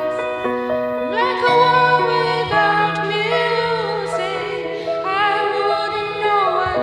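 A woman singing over a karaoke backing track, her voice entering about a second in above held accompaniment notes.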